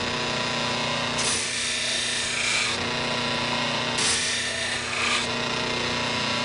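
Buffing machine's motor running steadily while a hoof knife's blade is pressed against a compound-loaded felt buffing wheel, giving a hissing rub. There are two passes, one a little after a second in and one at about four seconds, as the belly of the blade is finished.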